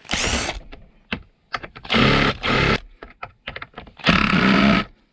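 Cordless drill-driver run in three short bursts of under a second each, with clicks and knocks of the bit and wood between, trying to back a fastener out of a wooden box lid.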